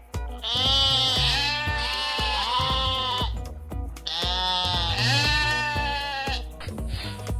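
Sheep bleating: long, quavering bleats, one stretching from about half a second to three seconds in and another from about four to six seconds in, over background music with a steady beat.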